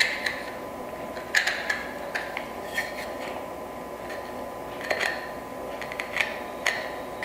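Wood chisel cleaning out the corners of dovetail tail sockets: a string of light, irregular clicks and taps as the steel edge meets the wood.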